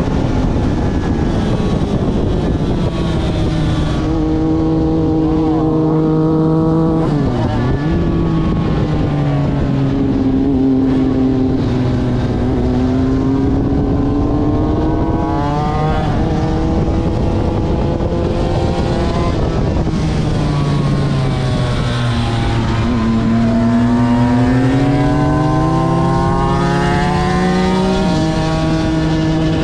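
Aprilia RS250's two-stroke V-twin engine at full race pace, its pitch climbing and falling as the bike runs up and down through the gears, with sudden drops at the gear changes.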